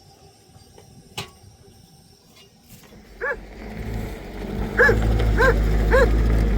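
A dog barking: one bark about halfway through, then three quick barks near the end. Under the barks a low rumble builds up.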